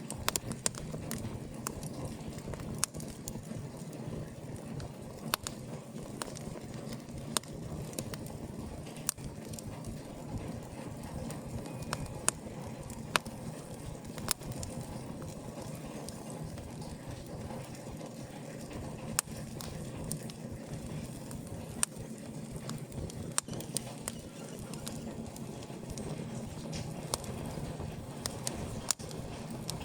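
Wood fire crackling in an open fireplace: scattered sharp pops at irregular intervals over a steady low rush of burning.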